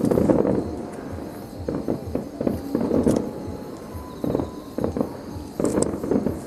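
Aerial fireworks bursting in quick succession, a deep boom every second or so with sharp crackles, over music playing along with the show.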